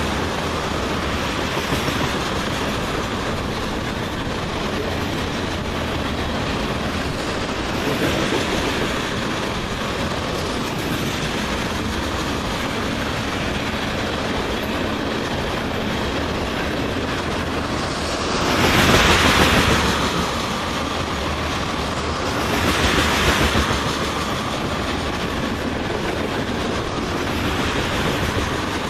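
Freight train of crude oil tank cars rolling past: a steady rumble with wheels clattering over the rail joints. It swells louder twice, about two thirds of the way in and again a few seconds later.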